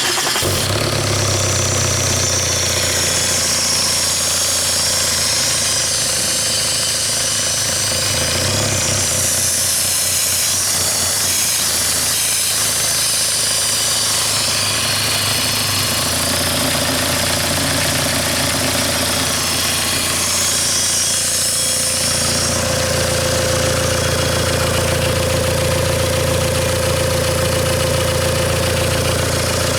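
Car engine running steadily on a test run for an oil pressure check, a low rumble with a high hiss over it. About two-thirds of the way through the sound settles and a steady whine comes in.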